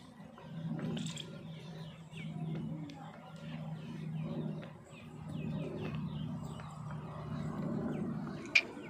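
Small birds chirping over and over in quick short notes, over a low steady hum that swells and fades; a single sharp click near the end.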